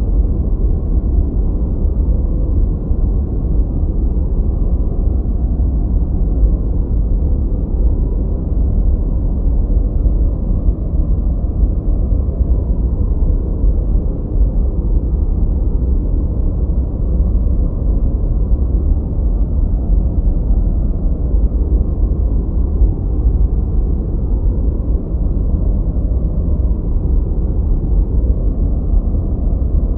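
Continuous generated masking noise, steady and deep: a low, muffled rumble with no hiss in the highs, closer to brown noise than to true white noise.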